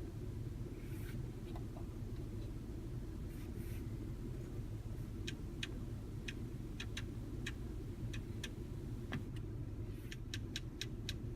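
Light, crisp clicks of the COMAND rotary controller knob being turned and pressed, a dozen or so in irregular runs from about five seconds in and again near the end, over a steady low rumble in the car's cabin.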